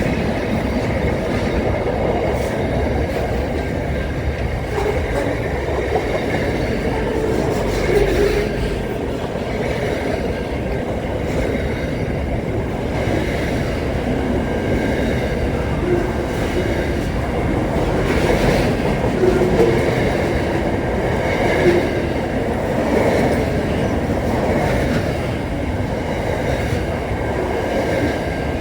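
A train running along the track: a steady, loud rumble and rattle of the cars, with occasional wheel clicks.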